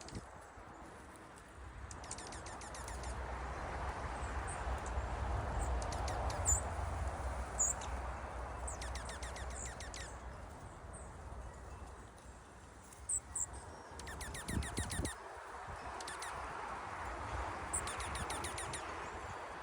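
Small wild birds calling outdoors in winter: several quick dry trills, each a rapid string of notes lasting about a second, and scattered single high chips. Behind them is a steady background rush of noise that swells and fades.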